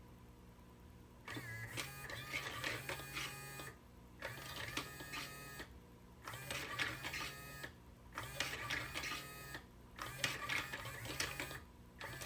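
Small electric motor and gearing of an automatic cat-teaser toy running in repeated bursts of about two seconds, with short pauses between them, a steady hum and clicking from the mechanism.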